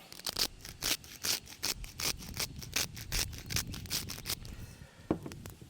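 Salt being shaken out of a container onto the pork skin for crackling, in a quick, even run of short strokes about four a second that stops a little over four seconds in. A single knock follows near the end.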